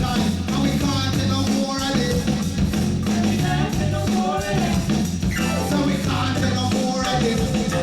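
A live reggae band playing, with bass, drums and a voice singing or a melody line over it.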